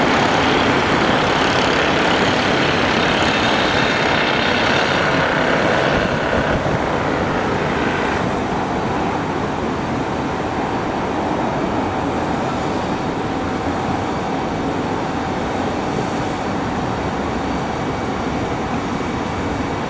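Boeing 737-800's CFM56 jet engines during the landing: a steady roar whose high hiss drops away about six and then eight seconds in, leaving a lower rumble that slowly fades.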